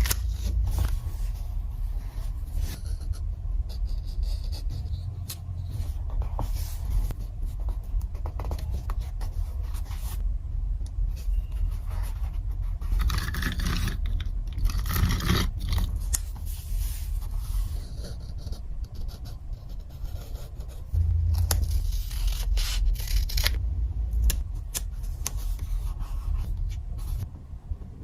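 Paper and stationery handled while journaling: irregular scraping and rubbing sounds that come and go, over a steady low rumble.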